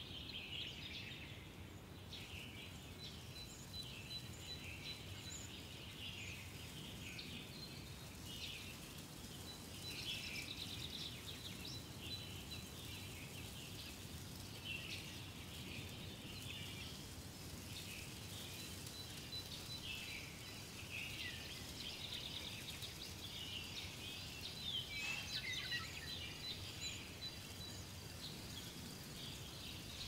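Birds chirping and twittering in many short, overlapping calls over a steady low background noise. A thin, steady high trill comes and goes, once in the first third and again near the end.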